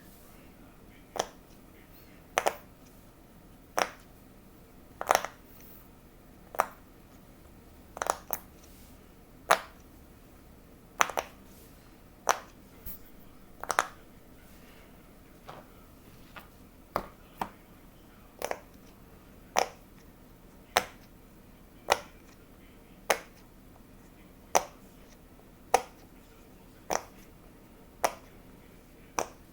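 Bubbles of a silicone pop-it fidget toy being pressed one at a time, each giving a short, sharp pop, a little more than one a second, with a few pops in quick pairs.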